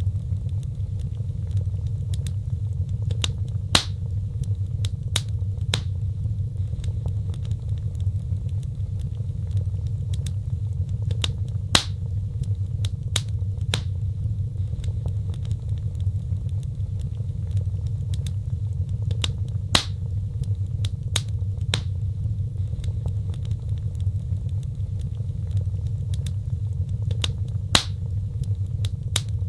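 Wood fire burning in a fireplace: a steady low rumble with scattered sharp crackles and pops every few seconds, sometimes two or three close together.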